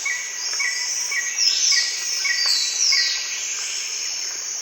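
Rainforest birds and insects calling: a short chirp repeating about twice a second, several falling high whistles, and a steady high-pitched insect drone underneath.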